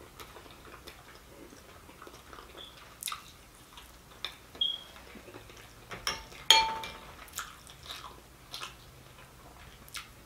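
Close-miked chewing of fried fish, with soft mouth sounds and a few sharp clicks of a metal fork as the fish is picked apart. The loudest click comes about six and a half seconds in.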